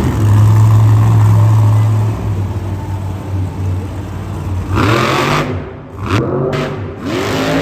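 Engine running with a steady low hum, then revving in rising and falling sweeps from about five seconds in.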